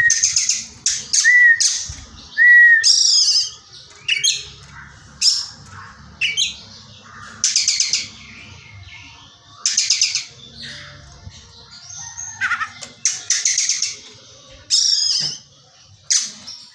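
Oriental magpie-robin (kacer) singing in mimicry of a kingfisher (tengkek buto) call: repeated harsh, rasping squawks with pauses between them, and short whistled notes in the first few seconds.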